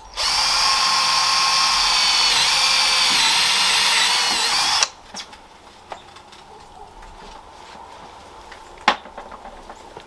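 Electric drill running for about four and a half seconds with a steady whine that dips slightly in pitch a couple of times under load, then stops abruptly. A few sharp knocks follow, one loud one near the end.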